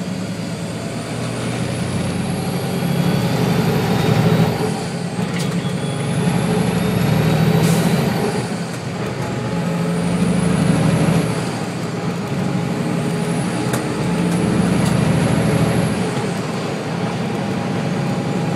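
Truck engine pulling hard through several gears. A high whine climbs with each gear and drops sharply at each shift, about five times.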